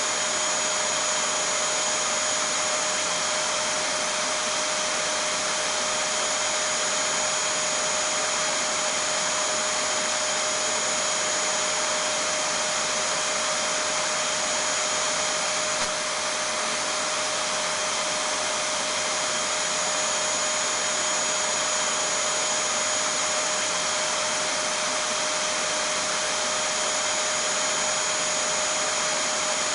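Vacuum cleaner running at a constant speed: a continuous rushing hiss with a steady motor whine, played as sleep noise for a baby. There is a faint click about halfway through.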